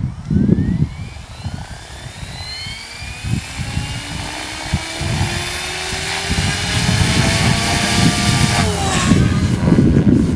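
MSH Protos electric RC helicopter's motor and rotor whine rising steadily in pitch for about eight seconds, then dropping abruptly into a broader rush near the end. Heavy wind buffets the microphone throughout.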